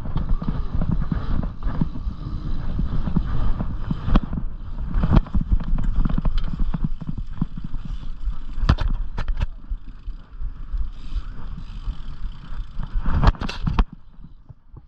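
Dirt jump bicycle being ridden over rough ground: steady rumble of tyres and rattle with wind on the microphone, broken by several sharp knocks, a cluster of them shortly before the noise drops off about fourteen seconds in.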